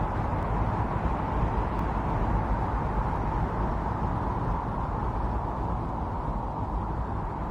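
Strong winter storm wind blowing in a steady rush with slight swells, a deep rumble underneath.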